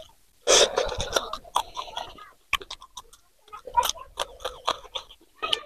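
Close-miked chewing and crunching of a raw green chilli pepper: irregular wet crackles and crunches from about half a second in.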